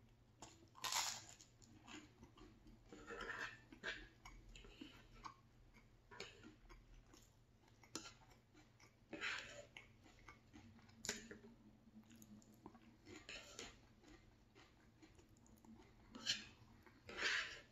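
Close-miked chewing of buttered toast and scrambled eggs, coming in irregular bursts every second or two with some crunching, and a few sharp clicks in between.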